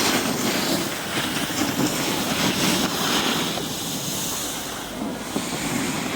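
Skis or a snowboard sliding and scraping over packed snow in a steady, rushing hiss that swells and eases as the edges bite, with wind buffeting the microphone.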